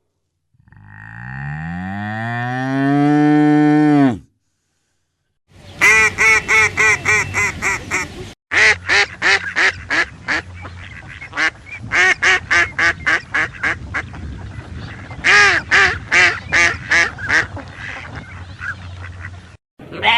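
A bull mooing once in one long call that rises and falls in pitch. After a short pause, a duck quacking over and over in quick runs of calls.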